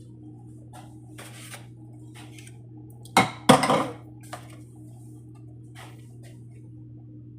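Dishes and utensils clattering as they are handled: a few short knocks and clinks, the loudest a quick pair about three seconds in, over a steady low hum.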